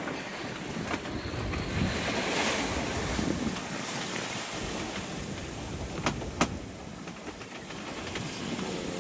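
Wind and rushing waves around a sailboat under sail in a fresh breeze, with wind buffeting the microphone and a swell of rushing water a couple of seconds in. Two sharp knocks about six seconds in.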